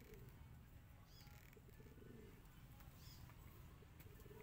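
Near silence with a low steady hum and a few faint, short bird chirps spaced a second or two apart.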